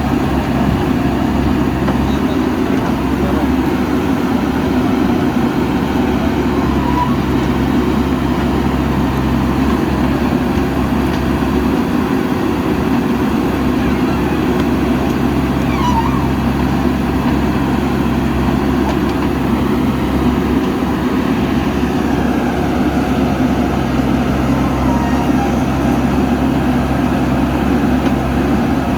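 Diesel engine of a JCB backhoe loader running steadily while it works.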